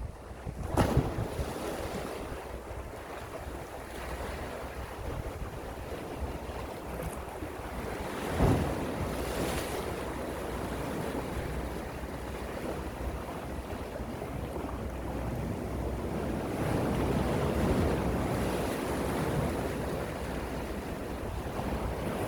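Gentle sea waves washing in, a continuous rush with wind buffeting the microphone. Two brief louder surges come about a second in and about eight seconds in.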